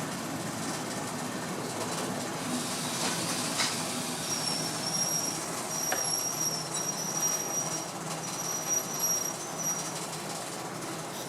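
Train running on the rails over a steady rumble, with a few sharp clicks. A high, thin metallic squeal sets in about four seconds in and keeps breaking off and returning until near the end.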